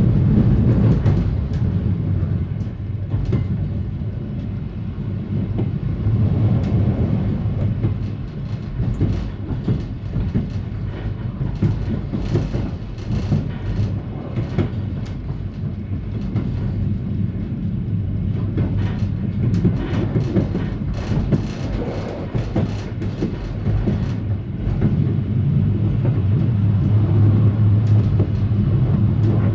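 Train running along snow-covered track, heard from the cab: a steady low drone with scattered short clicks and knocks from the wheels over the rails.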